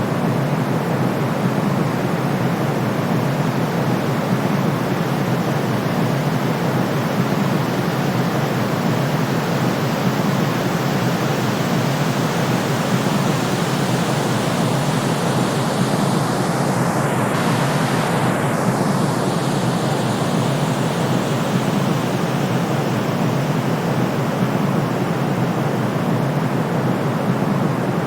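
Steady, even white noise weighted toward the low end, like pink noise, played as a calming sound to soothe a colicky baby. About two-thirds of the way through, its upper range briefly shifts in tone.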